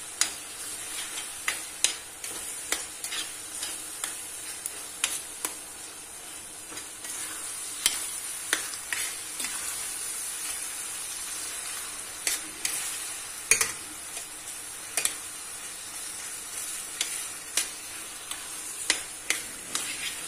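Minced meat and onion frying in a stainless steel pan, sizzling steadily, while a metal spoon stirs it and clicks and scrapes against the pan at irregular moments.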